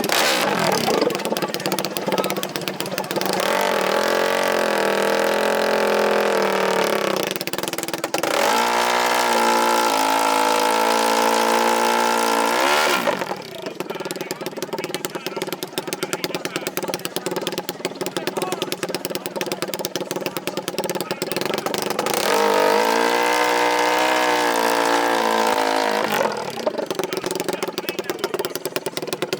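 Off-road racing engines revving hard, rising in pitch and holding high in three runs. A lower, quieter engine sound runs between the second and third runs.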